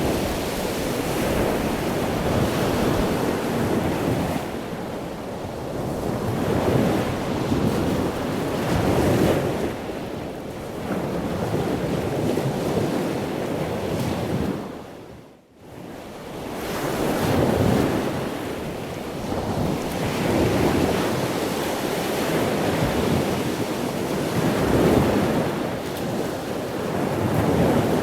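Ocean surf breaking and washing on a beach, rising and falling in slow swells. About halfway through it fades out almost completely for a moment, then swells back in.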